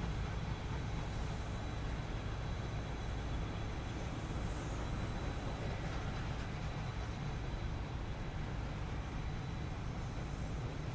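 Container freight train rolling by with a steady low rumble.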